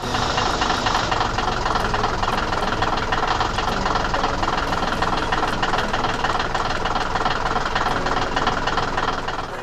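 A heavy engine running steadily with a fast knocking rattle. It starts suddenly and fades out near the end.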